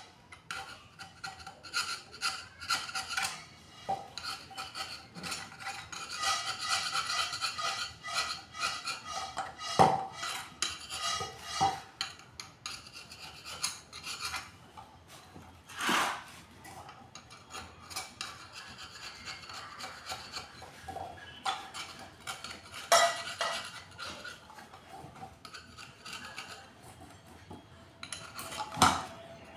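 Repeated rough scraping and rubbing on metal parts of an electric water pump being repaired, with a few sharp clinks of metal tools, the loudest about a third of the way through.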